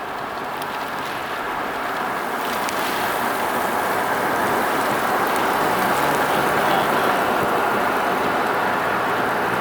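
A moving car: steady rushing road and wind noise that slowly grows louder, with a low engine hum coming in about six seconds in.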